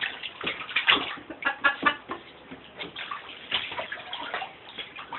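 Water splashing and sloshing in a bathtub as a dog moves about in it, in irregular splashes.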